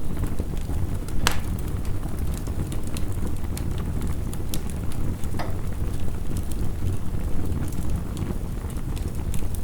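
Wood fire crackling with scattered sharp pops, one loud pop about a second in, over a steady low rush of heavy rain.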